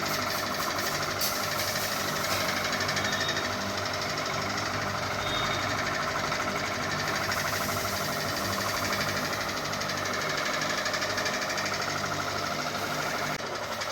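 Ceiling fan running with a fast, steady mechanical rattle.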